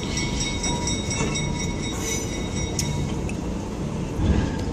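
Train rolling along the track, a steady rumble of wheels on rails heard from aboard the moving car.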